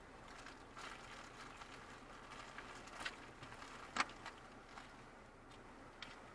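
Faint scattered clicks and small knocks, with one sharper, louder click about four seconds in.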